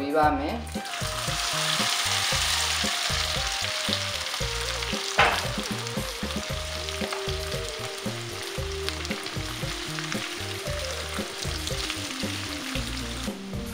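Dried anchovies sizzling in hot oil in a wok: the frying swells about a second in as the fish hit the oil, then settles to a steady sizzle while they are stirred with a spatula. A single sharp knock about five seconds in.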